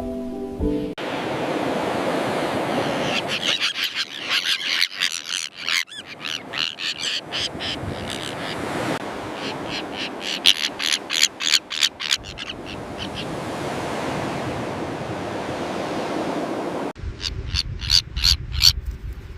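Common terns calling in quick runs of short repeated notes, several bursts with gaps between, over a steady wash of surf and wind.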